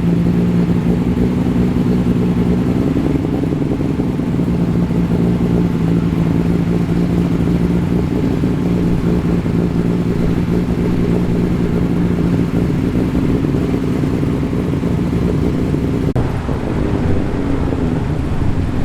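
A modified performance car's engine running at a steady idle close by. Its deep, even note shifts slightly a few seconds in and again near the end.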